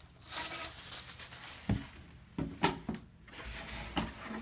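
Unpacking sounds: plastic or cardboard packaging rustling around a vacuum cleaner part as it is lifted out and handled, with several sharp knocks and clicks in the second half.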